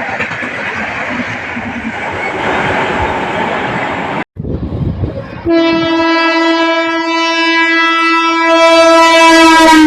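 Loud running noise of a passing express train, then after a brief break a long, steady, loud blast of an Indian electric locomotive's horn that holds for the last four seconds or so.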